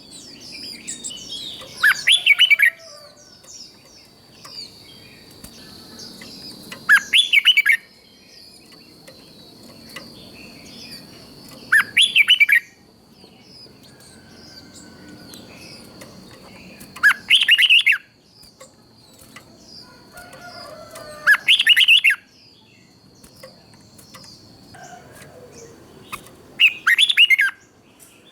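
Red-whiskered bulbul singing its short, loud song phrase six times, about every five seconds, with fainter chirps between. A thin steady high tone runs under the song and stops near the end.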